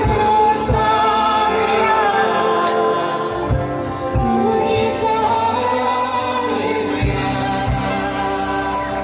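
Voices singing a Hindi Christian worship song together over instrumental backing, with low beats thudding under the melody.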